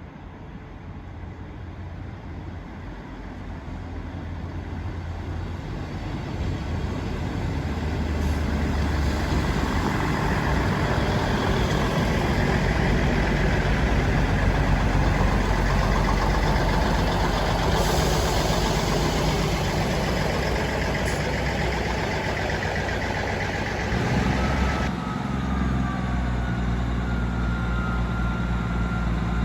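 Diesel train passing, its engine growing steadily louder over the first several seconds as it approaches, then running loud and close. Near the end the engine note changes and faint high gliding squeals appear.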